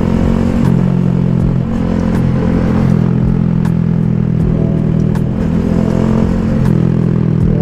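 Honda Grom's small single-cylinder engine running under load while riding, with the engine note dipping briefly twice.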